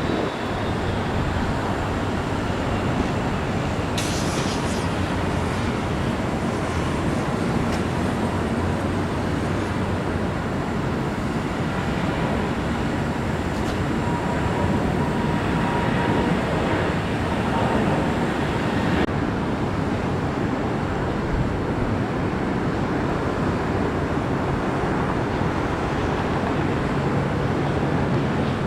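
Jet airliner engines running, a loud steady rumble with a faint high whine over it from a few seconds in to about two-thirds of the way through.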